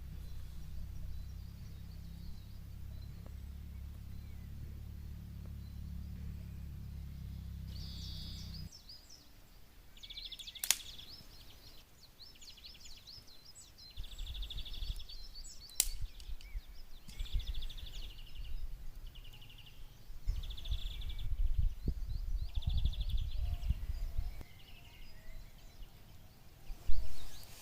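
Outdoor ambience: a small bird sings short, rapid, high trills again and again, with gusts of wind rumbling on the microphone and a few sharp knocks, the loudest near the end.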